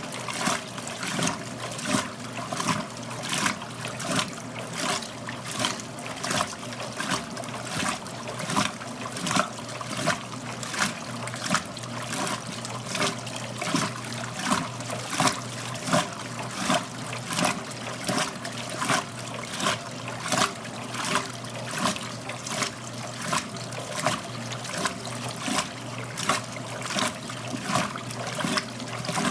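1969 Westinghouse front-loading washing machine tumbling a wet load of work clothes: water and laundry splash in the turning drum with a regular beat about every two-thirds of a second, over a steady low machine hum.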